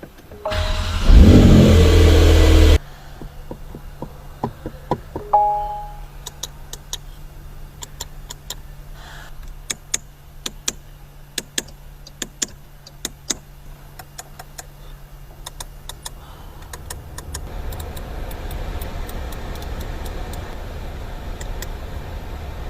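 Porsche 911 flat-six engine started with a brief rev that cuts off sharply, then a steady low idle. Scattered clicks run through the idle, with a short three-note chime about five seconds in.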